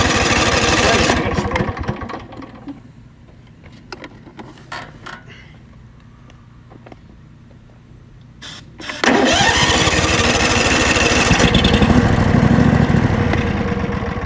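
Tractor engine being cranked over to start, dying away after a second or two; after a quiet pause with a few clicks it is cranked again about nine seconds in and runs until near the end without catching for good. The hard starting comes from water in the carburetor.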